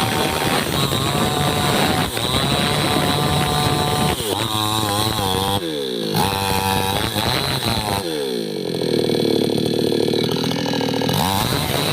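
Chainsaw running loud and steady, its engine pitch falling and rising again several times through the middle as the throttle and cutting load change.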